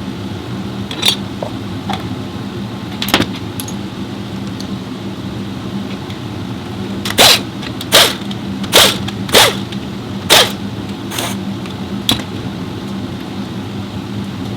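A series of sharp metallic clanks and clinks over a steady low mechanical hum: two single knocks, then a quick run of six or seven louder clanks in the second half.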